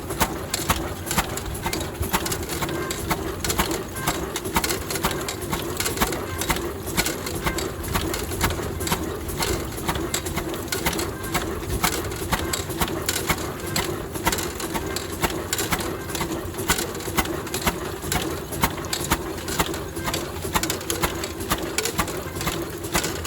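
Ruston stationary diesel engine running steadily: a rapid, even train of exhaust beats over a steady low hum.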